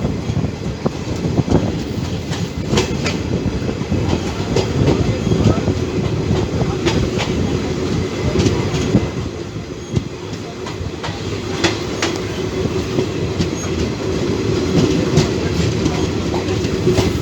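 Passenger train running along the track, heard on board: a steady low rumble with sharp, irregularly spaced clicks as the wheels pass over rail joints.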